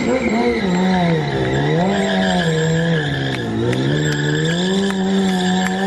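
BMW S1000 sport bike's inline-four engine held at high revs through a circle wheelie, its pitch swelling and dipping every second or two as the throttle is worked.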